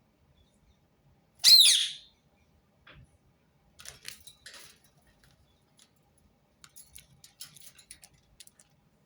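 Ring-necked parakeet giving one loud, shrill screech about a second and a half in, followed by quieter bouts of scratchy chattering.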